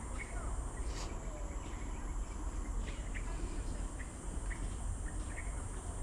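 Tropical forest ambience: a steady high-pitched insect drone with short bird chirps scattered through it, over a constant low rumble.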